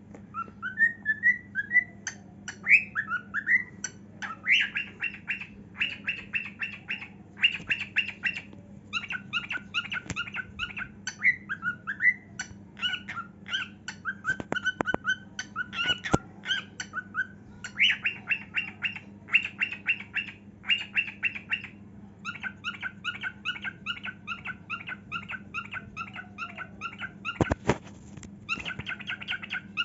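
A cockatiel singing: a few rising whistled notes at first, then phrase after phrase of rapid, repeated chattering warbles.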